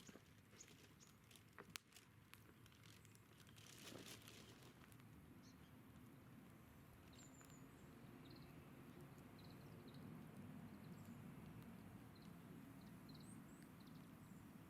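Faint quiet outdoor ambience: a few sharp small clicks and crackles in the first seconds, then soft steady background noise with scattered faint high bird chirps.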